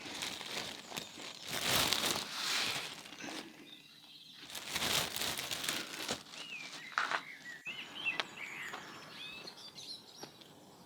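Two swells of rustling noise in the first half, then small birds chirping in short rising and falling calls through the second half.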